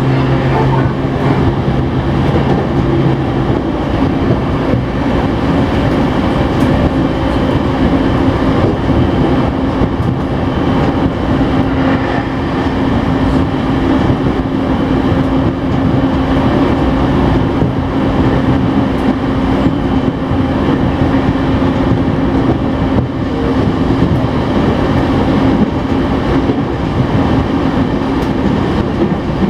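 Steady running noise of a train heard from inside the carriage: a dense rumble of wheels on the rails with a constant low hum. A deeper hum drops out about three seconds in.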